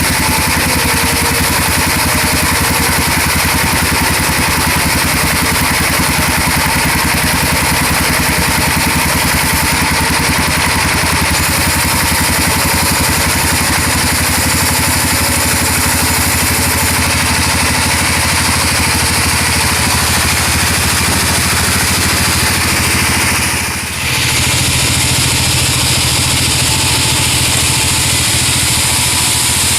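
A sawmill's engine running steadily and loudly. About 24 seconds in it dips briefly, then carries on with a heavier low note.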